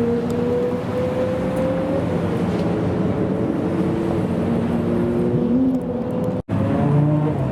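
Several supercar engines revving and accelerating, more than one running at once, one rising in pitch over the first two seconds. The sound drops out for an instant about six and a half seconds in.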